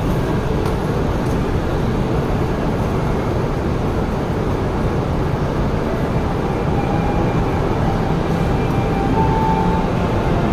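Steady low rumble and hiss beside an E5 series Hayabusa shinkansen standing at the platform with its doors open.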